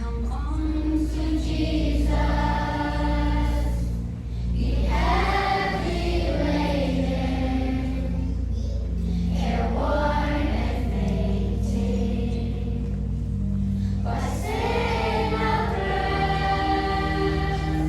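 A children's choir singing, in phrases of held notes with short breaths between them, over a steady low hum.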